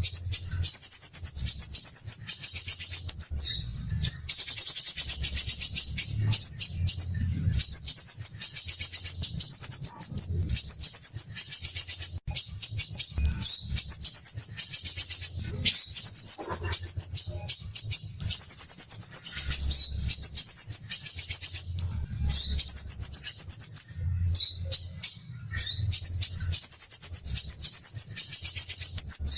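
Crimson sunbird song: tight, rapid, harsh high-pitched trills in phrases of a second or two with short breaks, repeated over and over.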